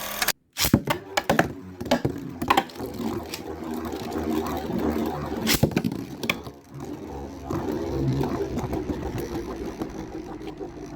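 Two metal Beyblade spinning tops, Storm Pegasis 105RF and Dark Wolf DF145FS, whirring in a plastic stadium with a steady hum and repeated sharp clacks as they collide, the clacks thickest in the first two seconds and again around five and a half seconds in.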